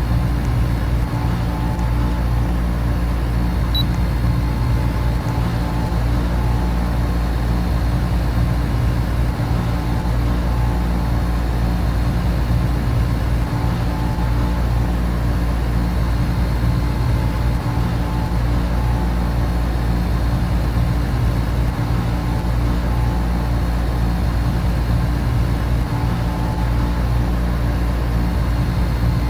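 Air conditioner and electric fans running steadily: an even, continuous hum, heaviest in the low end, with a few steady tones riding on it.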